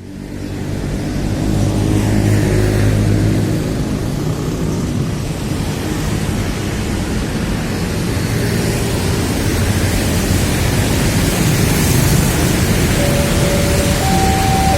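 Steady road traffic noise, with a heavy vehicle's low engine sound strongest in the first few seconds. Near the end a level-crossing warning signal starts, alternating between two tones.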